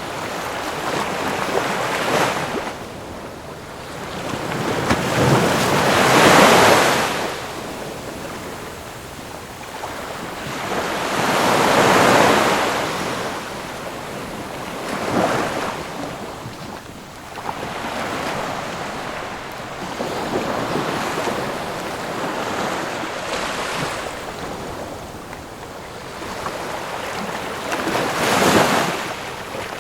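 Ocean waves breaking, the surf swelling to a crash and washing back every few seconds. The biggest crashes come about six and twelve seconds in, and near the end.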